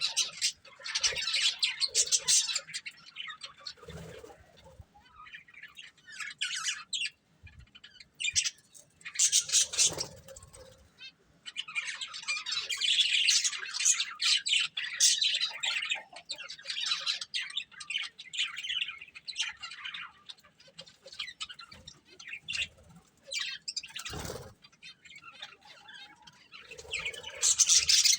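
Budgerigars chirping and chattering in bursts of quick, high, twittering notes. A few brief low thumps come in between the bursts.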